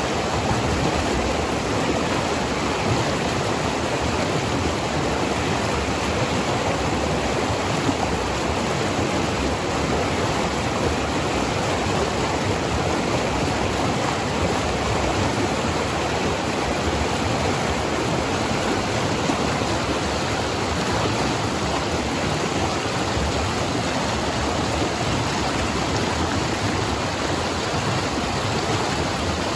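Fast river water rushing steadily over rocks in heavy pocket water.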